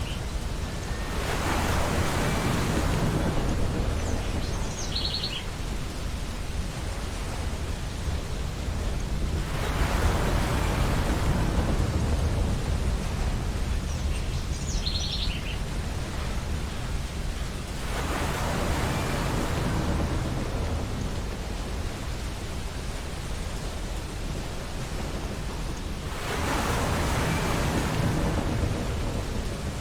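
Ocean waves breaking on a beach, each swell rising and falling away about every eight seconds. Brief high bird calls come a few times between the breakers.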